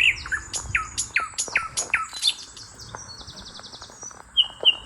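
Small birds chirping: a quick run of short falling chirps, then a brief buzzy trill, and a few rapid repeated notes near the end.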